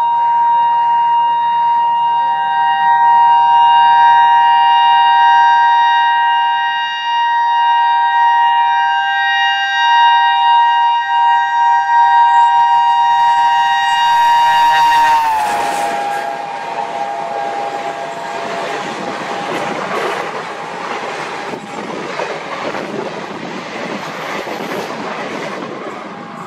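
WDM-3A diesel locomotive's horn held in one long continuous blast as it approaches, its pitch dropping about fifteen seconds in as the locomotive passes. Then the passenger coaches roll by with a dense, steady clatter of wheels on the rails.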